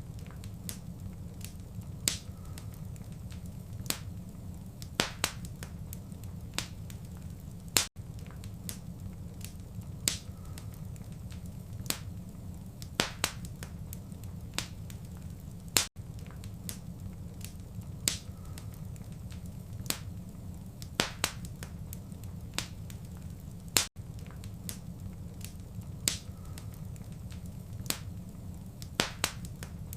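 Wood fire crackling: sharp, irregular pops and snaps over a low, steady rumble, with brief gaps about every eight seconds where the recording loops.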